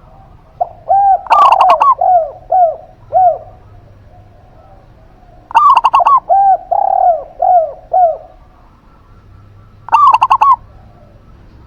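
A zebra dove and a spotted dove, caged songbirds, cooing in turn. A short, harsh, loud call phrase comes three times, about every four seconds. Between them, twice, comes a run of five or six lower, arched coos.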